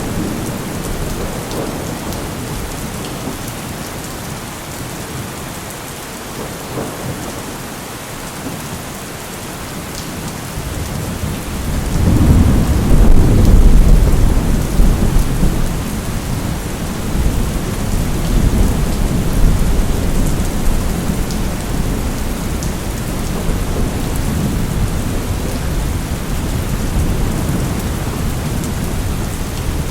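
Steady heavy rain with a long roll of thunder that builds about twelve seconds in, peaks over the next few seconds and then rumbles on more softly.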